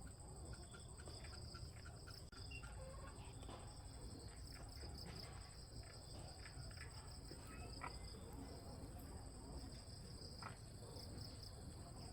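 Insects chirring steadily in two high-pitched, finely pulsing tones, faint, with scattered light clicks and taps.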